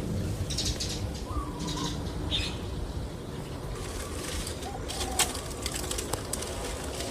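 Backyard birds flapping and rustling in repeated bursts, with a few short calls: warning calls raised at a water monitor lizard. A sharp click comes about five seconds in.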